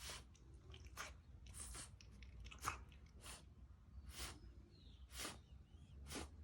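A French bulldog with kennel cough making a faint run of short, raspy, hacking bursts, about one a second: the dry airway irritation of kennel cough.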